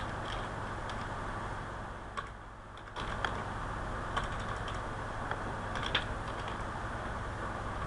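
Computer keyboard typing: scattered, irregular keystrokes over a steady background hiss and low hum.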